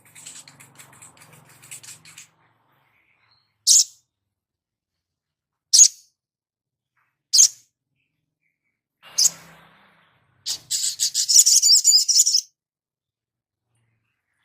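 Small songbirds calling on a bird-song tutor recording of sunbird and little spiderhunter: faint high chatter at first, then four single sharp high chirps about two seconds apart, then a fast twittering run for about two seconds near the end.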